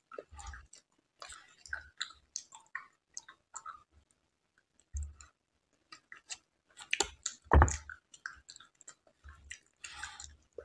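Close-up mouth sounds of someone eating soft, syrupy Indian sweets from a spoon: irregular wet chewing and lip smacking with small clicks, and one louder sound about seven and a half seconds in.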